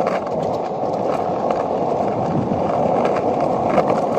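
Skateboard wheels rolling steadily over rough pavement, with a few light clicks as the board goes over cracks or bumps.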